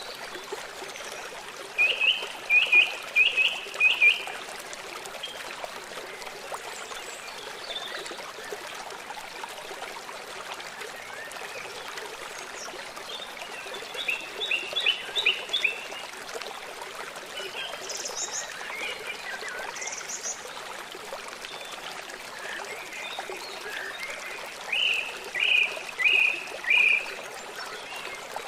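Songbirds singing over a steady trickling stream. One bird repeats a phrase of several quick, even notes three times, near the start, in the middle and near the end, with scattered higher calls in between.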